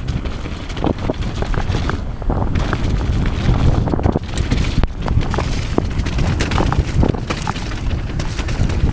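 Mountain bike descending a wet, muddy trail: wind rumbling on the camera microphone, with the bike clattering and knocking over rough ground.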